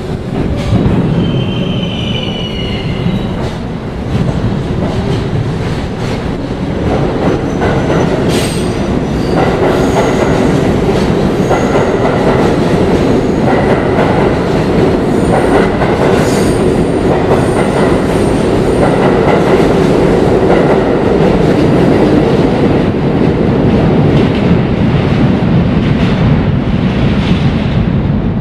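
Budd R32 subway train running on the rails, with steady loud running noise and clatter. A brief high wheel squeal sounds about one to three seconds in.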